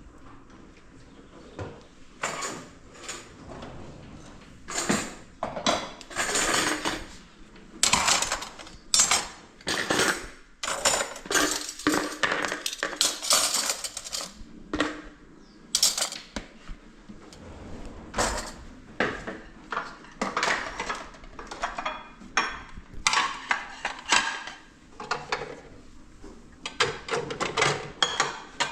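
Dishes and cutlery being handled: irregular clinks, knocks and rubbing as utensils are wiped and set down.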